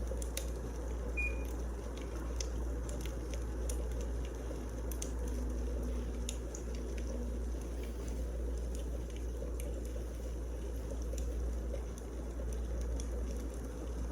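Wood fire crackling: a steady low rumble and hiss with scattered sharp pops and snaps at irregular moments.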